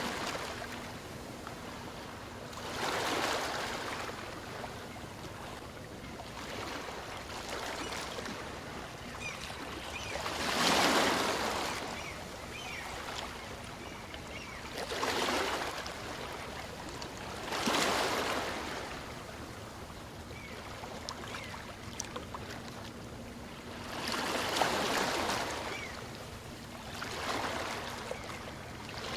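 Small waves on a calm sea breaking and washing up a beach. There are six surges a few seconds apart, each swelling and fading over a second or two, with a steady hiss of water between them.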